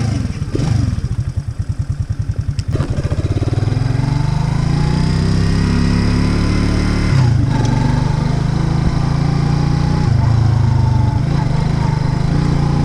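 Racer Alpha RC50 moped's small single-cylinder engine starting up. It fires slowly and unevenly for about three seconds, then settles into a steady idle.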